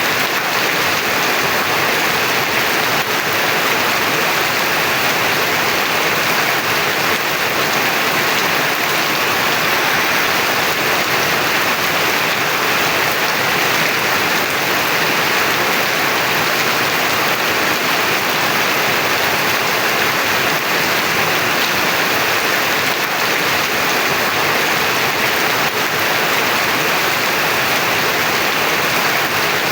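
Heavy rain falling steadily, an even unbroken hiss of rain on surfaces.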